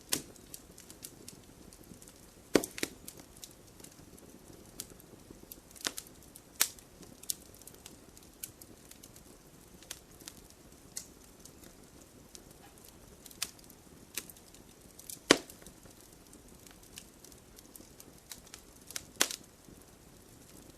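Wood campfire crackling: irregular sharp pops and snaps over a soft, steady hiss of burning, with a few much louder snaps standing out.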